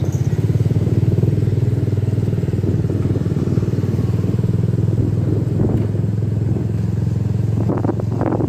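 Honda RS125 motorcycle with an open pipe running at a steady speed, its exhaust pulsing evenly without revving up or down, with wind noise on the microphone.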